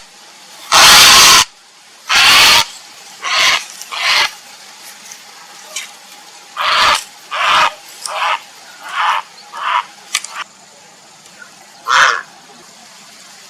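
Grey heron giving harsh, croaking calls, uttered as a mating call: two long calls near the start, the first the loudest, then about eight shorter, clipped ones spread irregularly through the rest.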